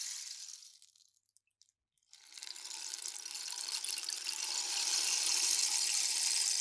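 Rain stick: the pebbles' rain-like patter fades out about a second in, a few last ticks fall in a near-silent gap, and a new patter starts about two seconds in as the stick is tilted again, then runs steadily.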